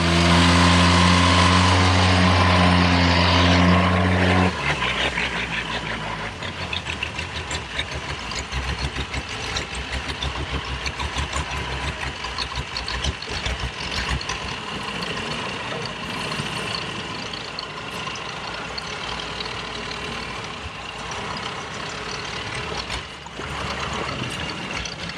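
Motorboat engine running loud and steady for about four seconds, then dropping to a lower, pulsing idle.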